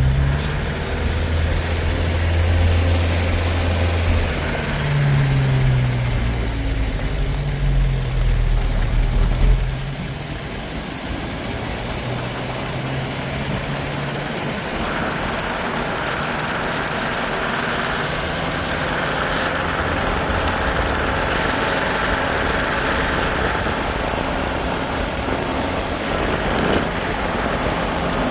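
A motor vehicle's engine running, its pitch rising and falling for the first ten seconds or so, then settling into a steadier, slightly quieter drone.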